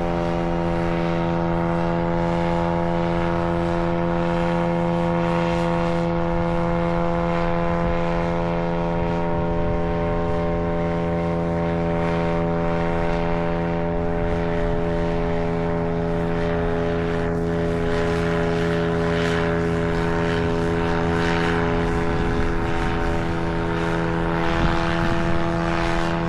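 Paramotor's two-stroke engine and propeller running steadily at constant speed, with a pitch that holds even.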